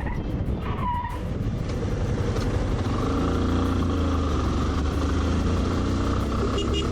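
Vehicle engines and road noise in traffic, running steadily, with a short squeal about a second in.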